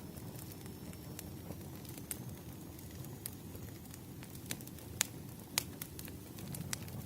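Wood fire crackling: scattered sharp pops and snaps over a low steady rumble, the two loudest pops about five seconds in and half a second apart.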